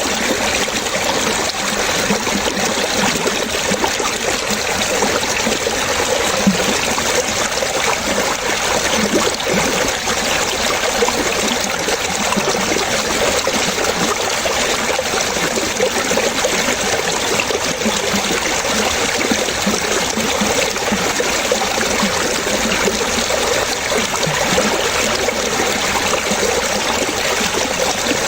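Running water trickling and splashing in a steady, continuous flow.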